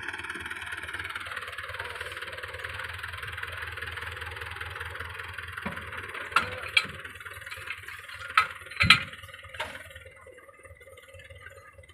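Tractor engine running steadily, with a handful of sharp knocks about six to ten seconds in. The engine sound then fades lower near the end.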